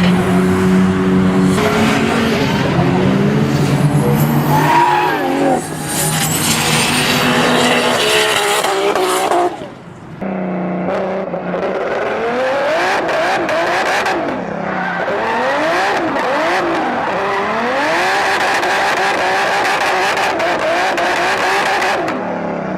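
BMW E30 engine revving hard with tyres squealing and skidding, as in a drift. About ten seconds in the sound breaks off briefly, then the engine pitch rises and falls again and again as it is revved up and let back down.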